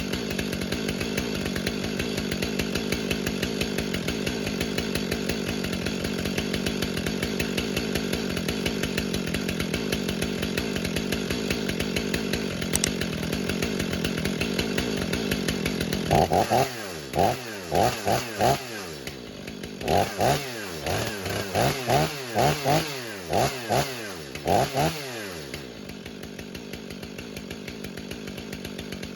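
Stihl MS500i fuel-injected two-stroke chainsaw idling while warming up from a cold start. About sixteen seconds in it is revved up and down in a dozen or so quick throttle blips, which clear out the fuel it loads up with when cold. It then settles back to a quieter idle.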